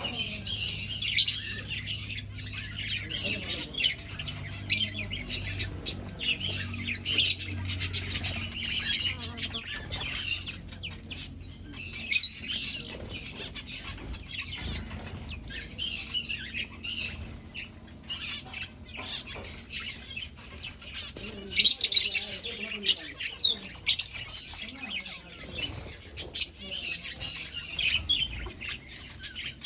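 A flock of small aviary finches chirping continuously, many short calls overlapping, with bursts of wing fluttering among them.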